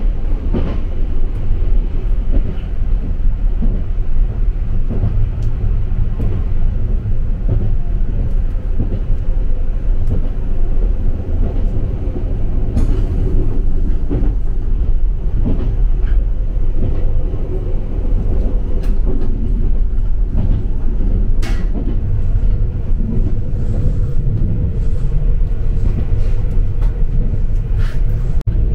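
Izukyu Resort 21 electric train running, heard from inside its observation car: a steady low rumble from the wheels on the rails, with a few sharp clicks.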